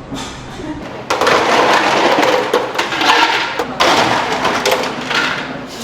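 Tempura frying in hot oil: a loud, dense sizzle full of sharp crackles that starts suddenly about a second in, as if batter has just gone into the fryer.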